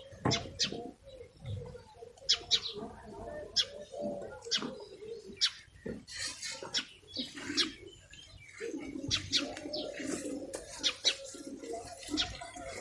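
Nestling birds chirping in the nest: many short, high chirps at irregular intervals, over lower, softer calls that come and go.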